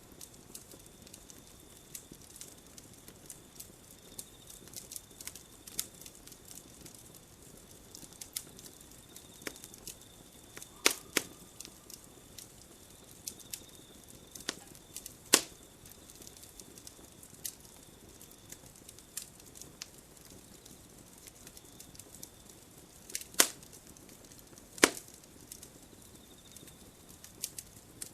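Campfire crackling: a steady soft hiss with frequent small snaps and pops from the burning wood, a few of them much louder. A faint, steady high tone comes and goes behind it.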